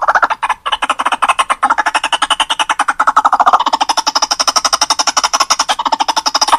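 White-breasted waterhen (ruak-ruak) calling in a rapid, continuous run of repeated harsh notes, about ten a second, as played on a bird-lure recording. About halfway through, the call rises in pitch for a few seconds.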